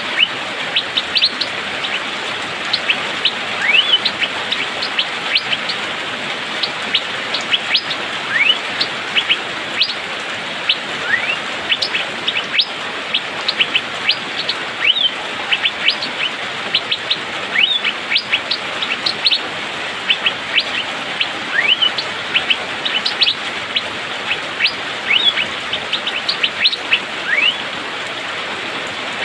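Asian fairy-bluebird (cucak biru) calling continuously: rapid, sharp 'pik' notes mixed with short rising whistled slurs, over a steady background hiss.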